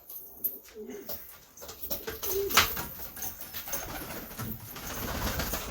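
Domestic pigeons cooing in short low calls, with scattered clicks and knocks and one sharp click about two and a half seconds in.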